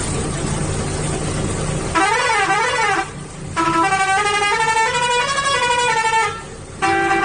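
A vehicle engine rumbles steadily for about two seconds. Then a musical vehicle horn plays a tune: first a warbling phrase, then a run of stepped notes, a short break, and more notes near the end.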